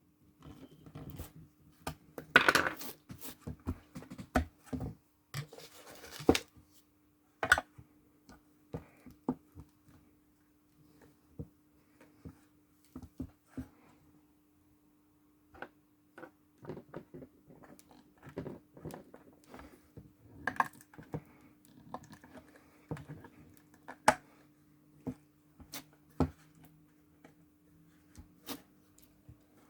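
Irregular clicks, scrapes and light knocks of hand tools working on an engine ECU's housing, with a louder scrape a couple of seconds in. A faint steady hum runs underneath.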